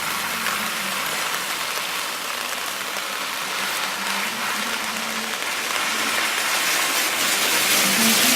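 Heavy rain falling steadily on a road, an even hiss with a faint low engine hum underneath. The hiss swells louder over the last couple of seconds.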